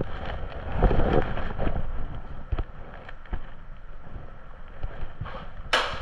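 Wind and movement rumbling on the microphone while a player moves during an airsoft game, with scattered clicks and a short, sharp hissing burst a little before the end.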